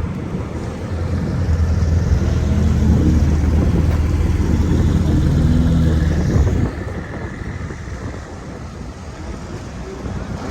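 A car engine running with a steady low drone for about five seconds, then cutting off suddenly.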